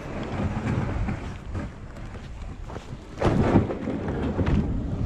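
Low wind rumble on the microphone with scattered short knocks, and a louder rumbling surge about three seconds in.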